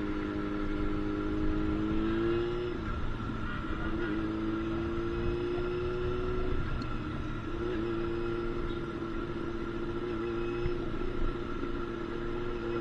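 Yamaha FZ6's inline-four engine through an SC Project aftermarket exhaust, pulling under way. The engine note climbs slowly and dips briefly three times, about 3, 6.5 and 10.5 seconds in, as at upshifts, then picks up again.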